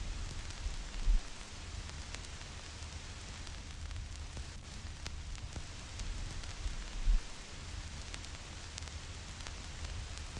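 Vinyl record surface noise: scattered crackles and pops over a steady hiss and low rumble. Two louder low thumps come about a second in and again about six seconds later.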